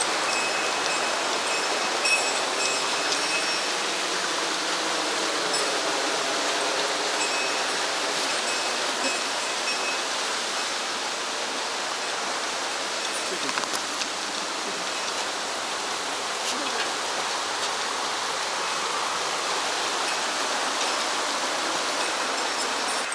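Mountain stream water rushing and splashing in a steady, even wash. A few faint, short high-pitched peeps sound over the first ten seconds or so.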